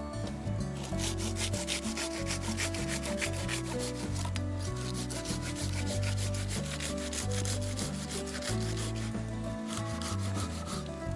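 Hand saw cutting through wood in quick back-and-forth strokes, several a second, with a rasping sound on each stroke that eases off near the end.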